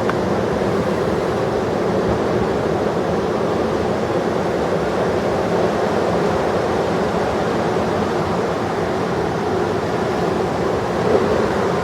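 Steady, even roar of heavy ocean surf breaking.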